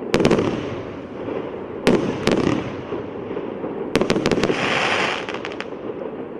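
'Генеральский' consumer fireworks battery from UralSalut firing its shots: sharp bangs about two seconds apart, each with a fading tail. Near the end a burst of hissing with a quick run of small cracks dies away.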